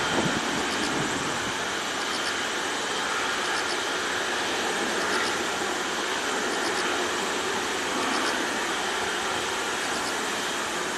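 Boeing 747-400F jet engines giving a steady, even roar, a little louder at the very start.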